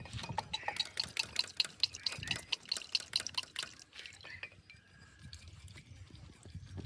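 Diesel dripping in quick drops, about five or six a second, from a tractor's fuel filter or fuel line during a filter change; the dripping fades after about four seconds.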